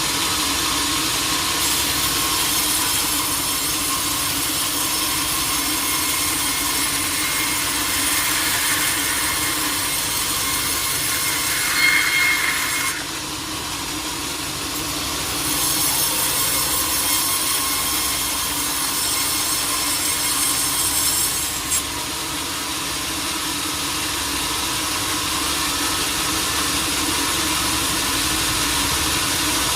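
Sawmill saw cutting through a teak log, with the mill's machinery running steadily underneath. The cut dips briefly about halfway through, then turns brighter and harsher for a few seconds before it cuts off suddenly.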